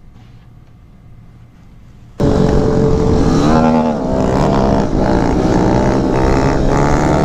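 A faint low hum for about two seconds, then an abrupt cut to a Kawasaki Z125 Pro's single-cylinder engine running loud under way, its pitch rising and falling with the throttle.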